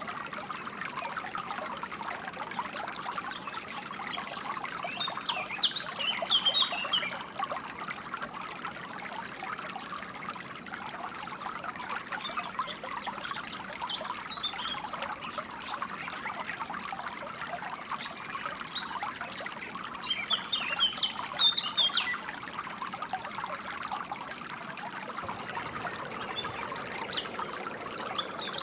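Water trickling and flowing steadily, with short spells of high birds chirping: a few seconds in, around the middle, about two-thirds of the way through and again near the end.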